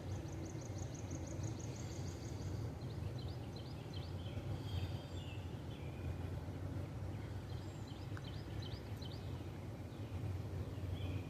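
Outdoor background: small birds chirping on and off, with a rapid trill in the first couple of seconds, over a steady low hum.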